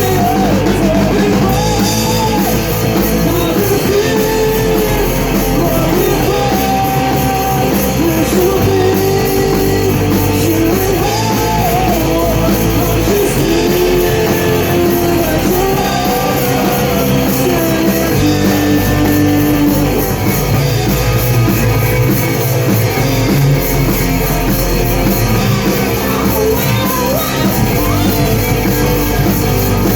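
Rock band playing a song at rehearsal: a voice singing a melody over electric guitar, a stepping bass line and drums.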